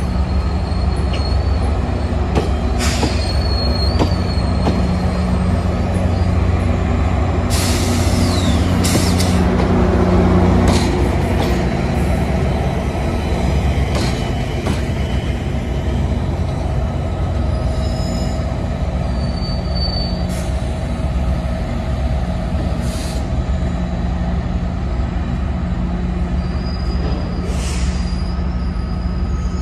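GO Transit bilevel coaches roll past on the rails with high wheel squeal, followed by the MP40PH-3C diesel locomotive pushing the train out. The engine drone grows louder as it passes and then eases as the train draws away, with several sharp hisses or clacks along the way.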